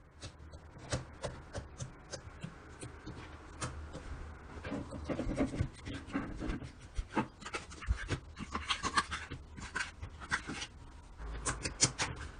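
Hands squishing and kneading slime: a steady run of small wet clicks and pops, thickest about two-thirds of the way through and again near the end.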